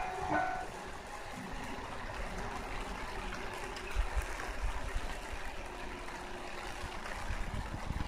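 A passing train dies away within the first second, leaving faint steady outdoor background noise with irregular low rumbling, like wind on the microphone.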